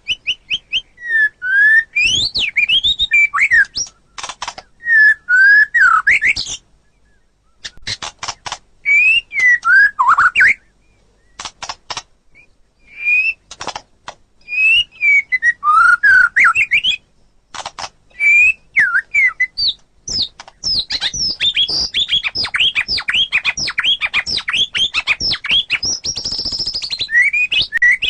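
White-rumped shama (murai batu) singing: varied phrases of gliding whistled notes mixed with sharp clicking notes, separated by short pauses. About two-thirds of the way through, the song breaks into a long, fast, unbroken run of notes.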